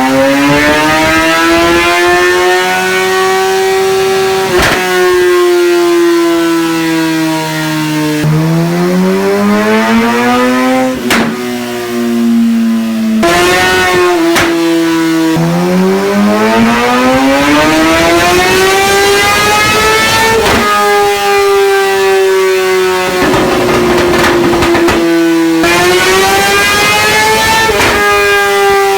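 2016 Kawasaki Ninja ZX-10R's inline-four running hard on a dyno through a Graves slip-on cat-delete exhaust. The revs repeatedly climb and ease, with a sudden drop in pitch four times.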